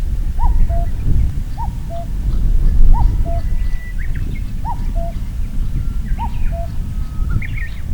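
Common cuckoo singing its two-note 'cuck-oo', high note then lower note, five times at an even pace. A low rumble runs underneath, with faint chirps from other small birds.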